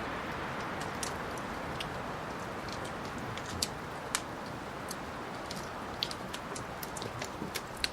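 Wood fire crackling in a fireplace: irregular sharp pops and snaps, a few louder ones, over a steady hiss of burning.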